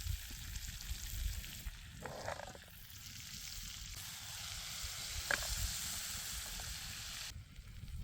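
Chicken breasts frying in olive oil in a pan over a campfire, sizzling steadily; the sizzle drops away about seven seconds in.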